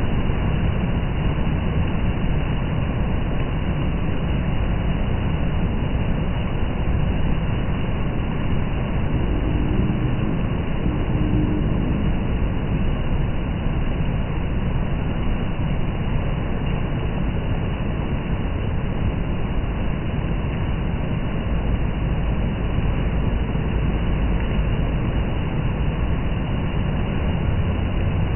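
Heavy rain falling steadily, a dense, even rushing noise with a strong low rumble that does not let up.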